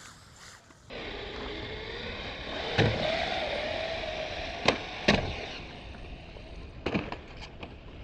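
MJX 1:14 scale brushless RC rally car running on concrete, its motor whine rising and falling with speed over the tyre noise, with four sharp knocks from the car hitting or bouncing over the ground.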